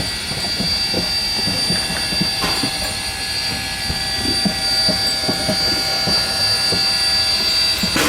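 The 1870s Rogers-built steam locomotive K 88 and its train running along the line, with irregular low knocks from the wheels over the track a few times a second and a steady high whine throughout.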